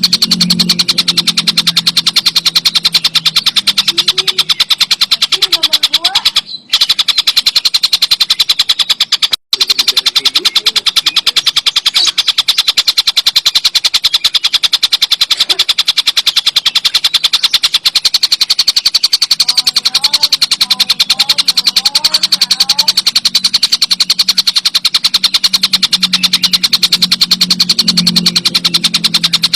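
Tengkek buto (a kingfisher) calling in a fast, continuous rattling trill with a low hum underneath. The sound drops out briefly twice, about six and a half and nine and a half seconds in.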